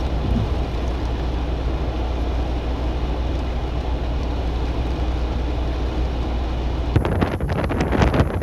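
Storm-force wind blowing across the microphone as a steady low rumble. About seven seconds in it turns to harsher, crackling buffeting.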